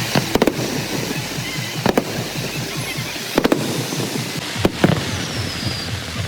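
Aerial fireworks exploding: a run of sharp bangs spread over several seconds, a couple of them in quick double cracks, over a steady background hiss.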